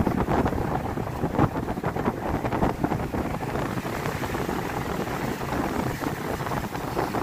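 Wind buffeting the microphone in an uneven, gusty rush.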